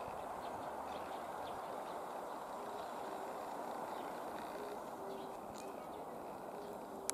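A dove cooing, a series of short low coos repeating from about a third of the way in, over a steady background hiss, with a few faint bird chirps.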